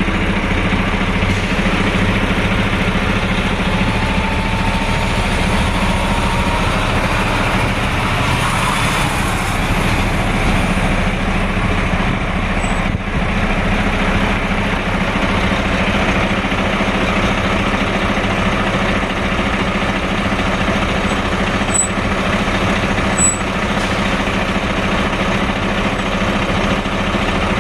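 Heavy truck traffic: big-rig engines running steadily with road noise. A faint rising whine comes in about five seconds in.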